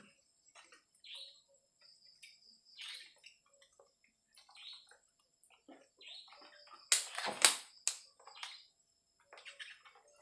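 Short, wet scrubbing strokes of a soft brush on a motorcycle engine crankcase, coming every second or so, with a few sharp clicks and knocks about seven seconds in.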